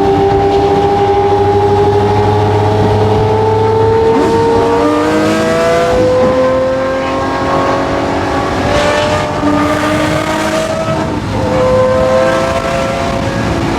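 Lamborghini Murcielago LP640's V12 with a straight-piped Fi exhaust, pulling under steady acceleration. Its pitch climbs slowly for about eleven seconds, then drops at a gear change near the end and starts climbing again.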